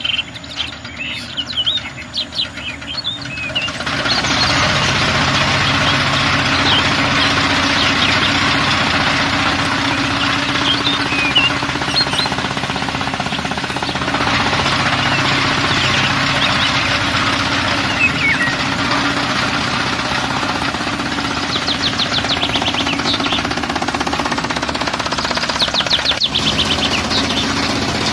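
Birdsong, then about four seconds in a small motor starts running steadily with a rattling, knocking sound.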